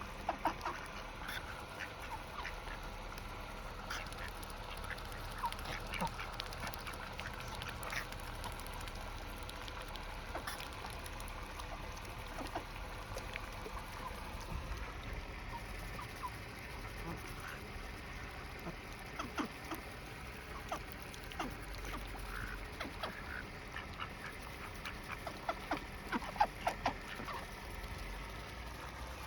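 Mallard ducks feeding on a spread of cracked sunflower seeds, with occasional quacks and many short clicks scattered throughout, growing busier near the end.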